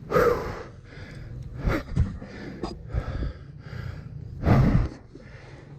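A man breathing hard and gasping, out of breath from exertion, with heavy breaths just after the start, around two seconds in, and a loud one near the end, over a low rumble.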